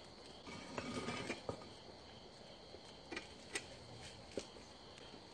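Faint, scattered pops and crackles from a wood fire grilling fish, over a steady high insect chirring.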